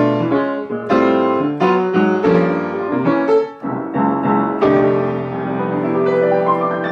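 Piano playing the outro of a song after the last sung line: a run of chords struck in quick succession, then about two-thirds of the way in a long chord that is held and left to ring.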